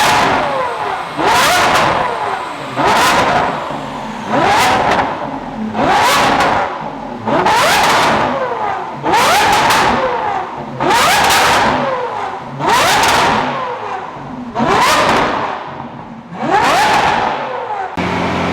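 Lamborghini Aventador's naturally aspirated V12 with an aftermarket exhaust, revving hard again and again: the pitch climbs and falls away about every two seconds, around ten times. Near the end it cuts to a steady hum.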